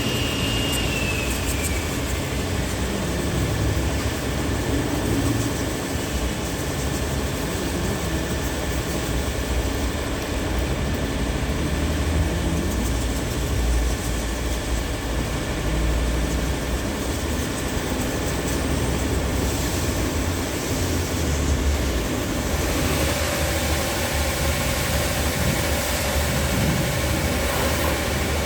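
Car wash machinery running with a steady rumble and rush; a high whine slides down in pitch about a second in, and the sound's character changes about 23 seconds in, as a new stage of the wash begins.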